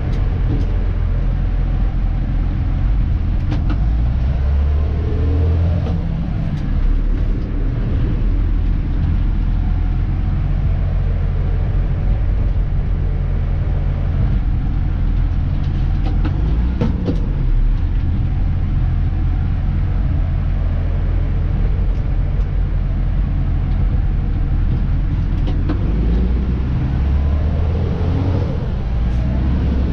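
Diesel engine of a Dennis Elite 2 refuse truck running, heard from inside the cab. Its pitch rises and falls a few times, around the fifth, seventeenth and twenty-eighth seconds, with a few light clicks over the steady engine sound.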